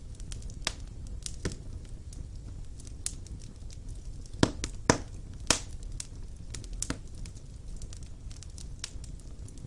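Wood fire burning in a stone fireplace: a steady low rumble of the flames with irregular crackles and sharp pops, a few louder pops clustered in the middle.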